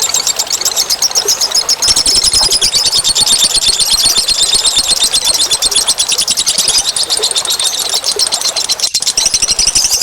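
Bird-lure recording of small birds giving a loud, rapid, high-pitched chattering trill. It pulses very fast and without a break, with a momentary dropout near the end.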